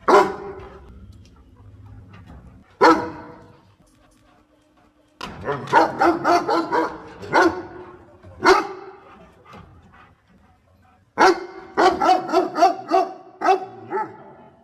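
A dog barking: a single bark at the start and another about three seconds in, then a run of quick barks from about five to nine seconds, and another rapid run near the end.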